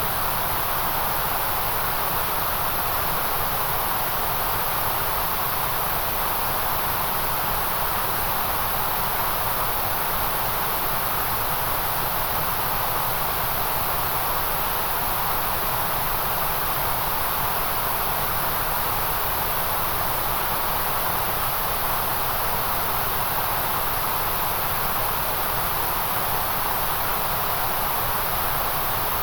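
Steady, unbroken hiss of a white-noise track, with a fuller band in the middle and a bright high hiss on top, unchanging throughout.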